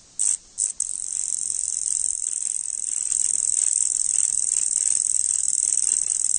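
High-pitched insect trill: a few short chirps, then from about a second in a continuous, steady shrill buzz.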